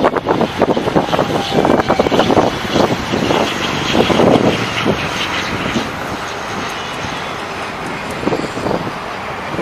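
Airliner engine noise as a plane passes, a steady roar through the second half, with irregular gusts of wind buffeting the microphone in the first half.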